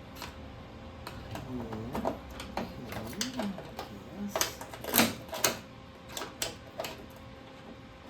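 Irregular sharp metal knocks and taps on a freshly welded clutch tube, testing how solid the weld is, with a few short squeaky scraping sounds early on. The loudest knock comes about five seconds in.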